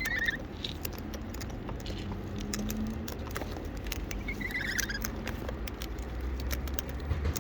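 Many small irregular clicks and taps of wild parrots pecking and scrabbling at their feed, with a short descending bird chirp right at the start and another around four and a half seconds in.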